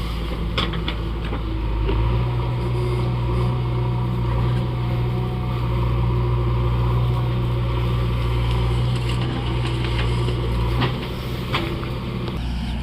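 Mahindra Arjun 555 tractor's four-cylinder diesel engine running steadily. It grows louder about two seconds in and eases back near the end.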